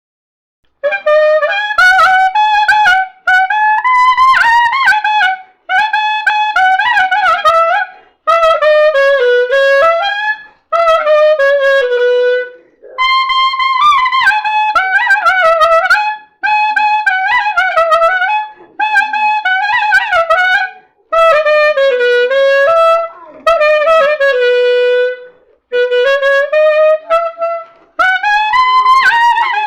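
Solo clarinet playing a melody in phrases of two to three seconds, separated by brief pauses, with notes that bend and slide in pitch.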